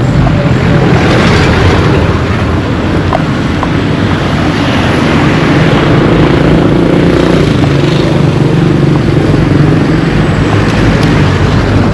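A motor vehicle's engine running close by, loud and steady, over street traffic noise.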